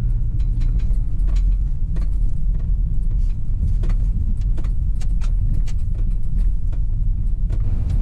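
A vehicle engine idling with a steady low rumble, with scattered light clicks and rattles over it.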